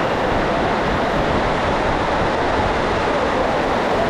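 Heavy rain falling on the hall's roof, a very loud steady hiss with no break.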